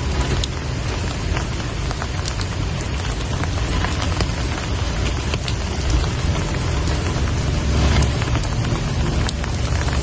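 Steady rain falling, an even hiss with scattered sharp drop hits, over a low rumble.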